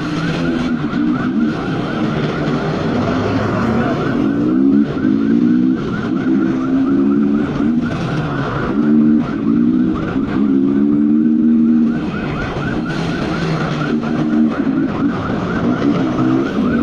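Police siren in a fast warbling yelp, over an engine that revs up again and again as it climbs through the gears during a pursuit.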